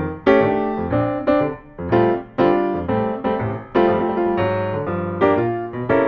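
Background piano music: notes and chords struck about every half second, each ringing and fading.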